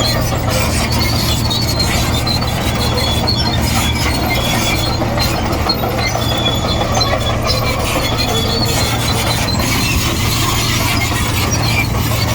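Komatsu D58E crawler bulldozer at work: a steady diesel engine drone under the squealing and rattling of its steel tracks.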